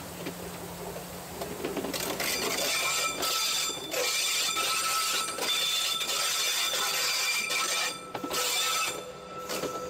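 Rack railway train running on the narrow-gauge line, wheels grinding with a high squeal, getting loud about two seconds in.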